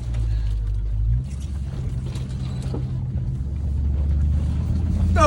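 Range Rover bobtail off-roader's engine running while being driven off road, heard from inside the cab. The engine note drops about a second in, then builds and gets louder toward the end.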